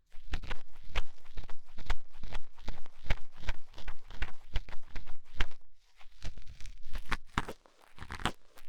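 Ear-cleaning tool scratching and rubbing inside a microphone's ear, a dense run of close, crackly scrapes with short pauses about six seconds in and near the end.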